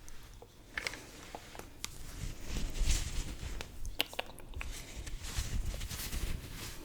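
Close-miked makeup handling: a few sharp clicks among soft, swelling brushing rustles.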